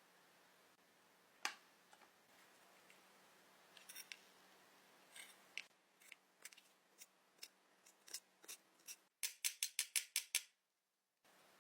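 Sharp clicks and taps of small tools handling makeup, spaced out at first and then a fast run of about eight crisp snips near the end.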